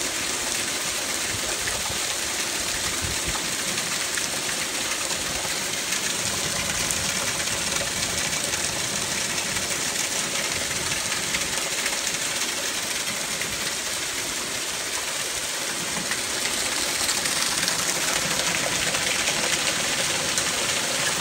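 Heavy rain falling steadily on trees and waterlogged ground, an even hiss that grows a little louder over the last few seconds.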